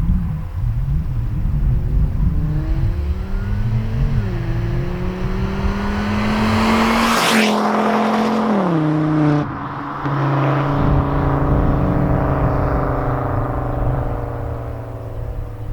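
Volvo V70 2.5T's turbocharged inline-five, exhaust through a catless downpipe and a Wicked Flow Kamikaze muffler, pulling up through the gears. The pitch rises and drops at each shift, with a brief loud hiss about seven seconds in, then it settles to a steady cruise. Low wind rumble runs underneath.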